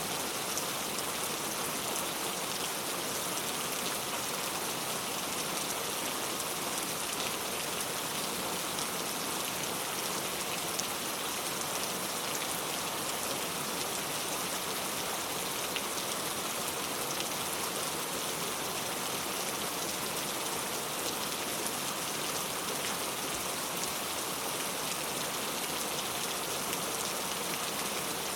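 Heavy rain falling steadily: a dense, even hiss of drops, with small sharp drop ticks scattered through it.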